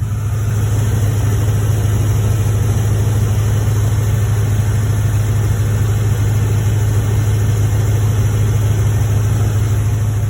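Engine of a 2005 Ram 1500 idling steadily with a rapid clicking from a leaking exhaust manifold.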